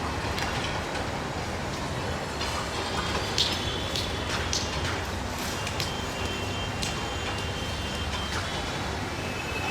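Passenger train carriages rolling past with a steady low rumble, broken by scattered metallic clicks and a few brief high-pitched squeals.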